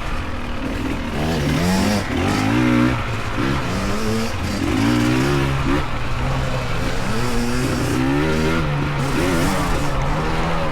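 Dirt bike engines on a trail, revving up and down over and over, with a steadier low engine note running underneath.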